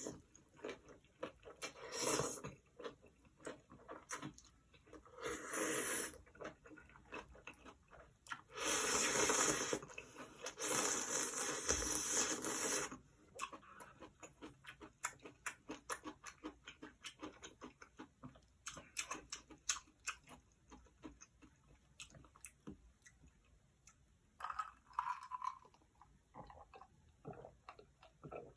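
Close-up eating sounds: curry ramyeon noodles slurped loudly in short pulls about 2 and 6 seconds in, then in a longer run of slurping from about 8 to 13 seconds. Wet chewing and mouth clicks fill the gaps between.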